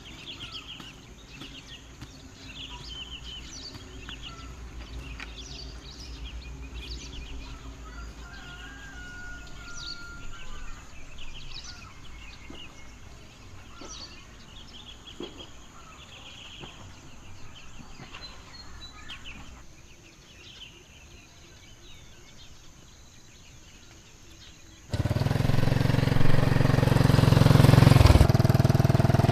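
Birds chirping over a low background rumble. About 25 seconds in, a loud small engine comes in abruptly and runs steadily.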